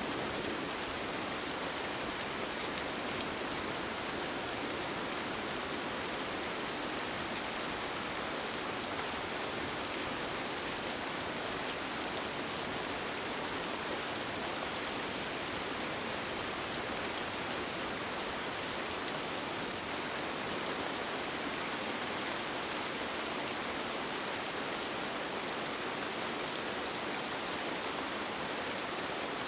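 Steady rain falling: a dense, even hiss with faint scattered taps of individual drops.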